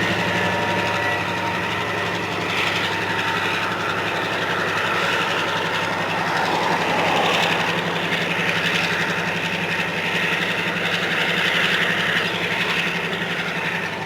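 Diesel locomotive engine running with a steady low throb, under the hiss of a moving train's wheels on the rails.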